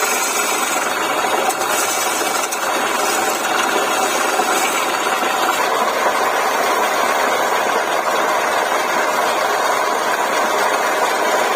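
Wood lathe running steadily, a continuous motor and spinning-work noise.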